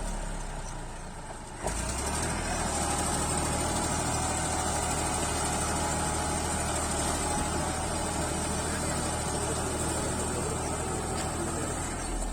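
Tractor diesel engine running steadily at a low, even speed; it gets louder suddenly about a second and a half in.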